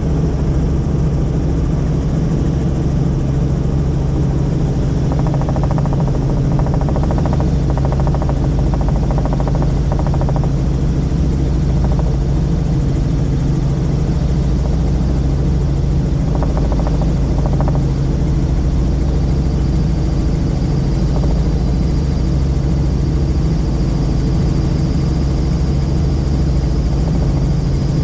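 Helicopter engine and rotor drone heard from inside the cabin in flight, loud and steady.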